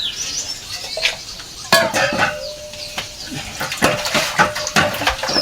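Dishes and metal utensils clinking and clattering in a string of sharp knocks, with a steady ringing note that hangs on after a louder knock about two seconds in.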